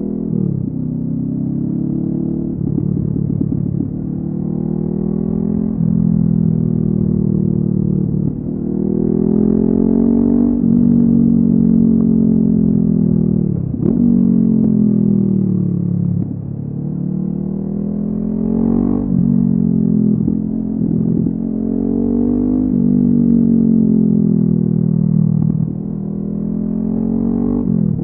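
Honda CB500F parallel-twin engine through a LeoVince aftermarket exhaust, under way. The engine pitch climbs under throttle and drops sharply at each gear change or lift-off, several times over.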